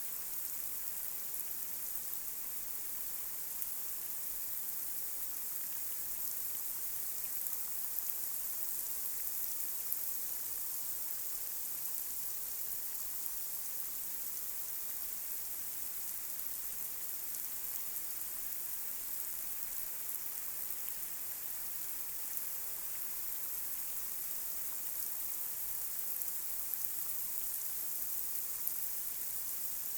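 Light rain falling on a street: a steady even hiss of rainfall with scattered small drop ticks.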